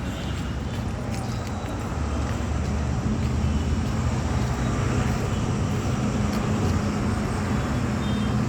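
Steady low rumble of a running engine, with a constant hum over a faint haze of traffic noise, slowly getting a little louder.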